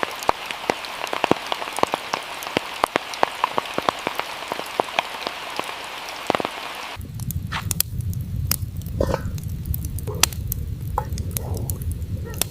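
Steady rain falling, with many individual drops clicking on a surface. About seven seconds in, the sound cuts to a low steady rumble with only a few scattered clicks.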